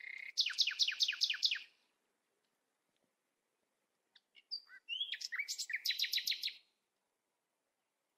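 A small bird calling twice, about four seconds apart. Each call is a quick run of six or seven sharp, high repeated notes, lasting a second or two.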